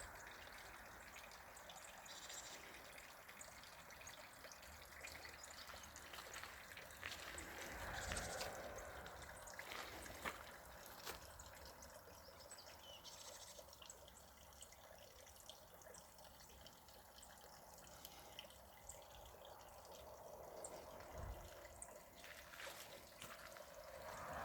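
Water trickling and dripping down a small three-tier garden cascade: a faint, steady splashing with scattered small drips.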